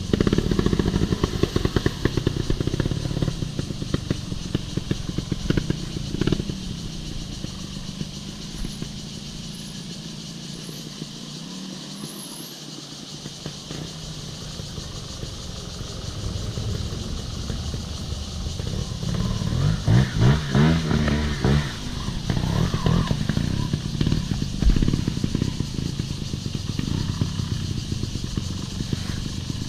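Off-road motorcycle being ridden on a dirt trail, its motor revving up and down, loudest about twenty seconds in, with some clatter.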